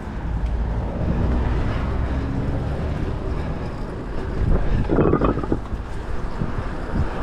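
Wind buffeting the microphone while riding an electric bike, a steady rumble, with a short louder sound about five seconds in.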